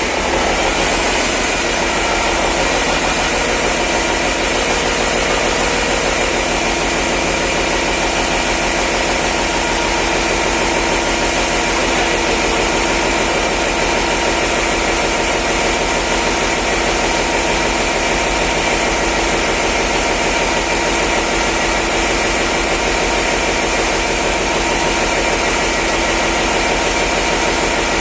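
Freshly overhauled Cummins NT855 inline-six diesel engine running steadily at idle, with the revs settling slightly in the first second.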